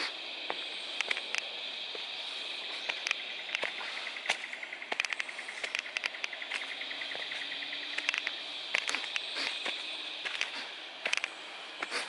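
Steady high-pitched drone of insects in bushland, with irregular crunching footsteps on leaf litter and twigs along a bush track.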